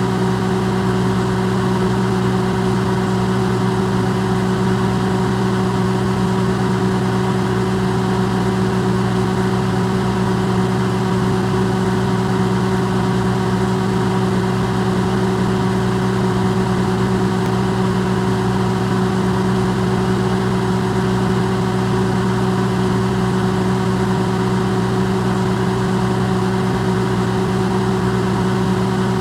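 Electrolux microwave oven running, recorded amplified: a steady, unchanging hum with a low buzz and a faint higher whir over a soft rushing noise.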